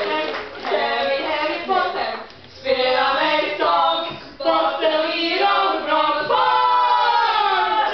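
Voices singing a chant together in short phrases, with brief breaks about two and four seconds in, ending on a long held note.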